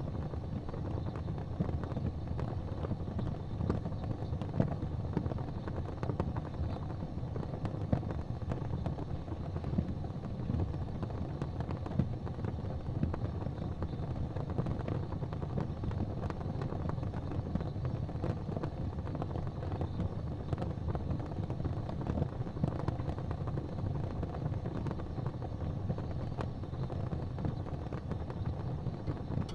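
Fire burning in an open fireplace: a steady low rumble of flames with frequent small crackles and an occasional louder pop.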